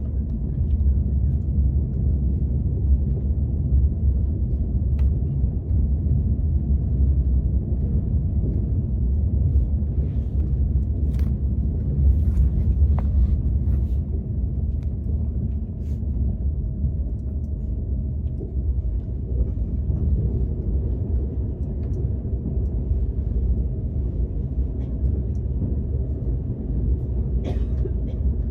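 Steady low rumble of a KTX high-speed train running, heard inside the passenger car, with a few faint clicks and taps scattered through.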